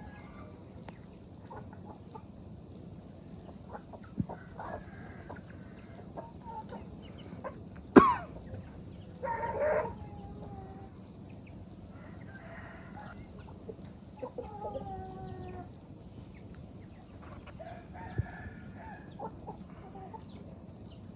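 Farm chickens clucking and calling, with longer crowing-type calls from a rooster. A single sharp click about a third of the way through is the loudest sound.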